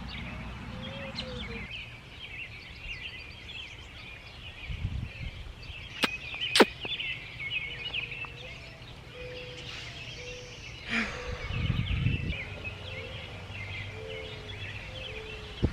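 Birds chirping continuously outdoors, with two sharp clicks about six seconds in and a brief low rumble near the end.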